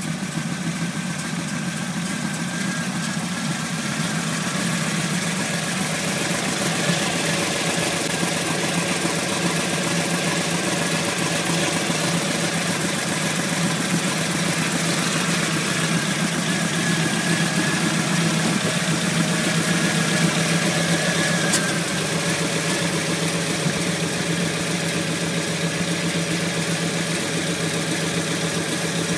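Chevrolet V8 in a 1968 Chevelle Malibu, fitted with tall velocity-stack intakes, idling steadily.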